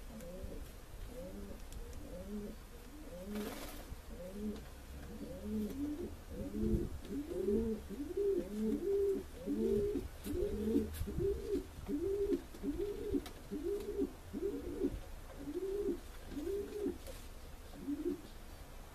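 A bird calling in a long series of repeated low, arched notes, about two a second, growing louder midway and dying away near the end.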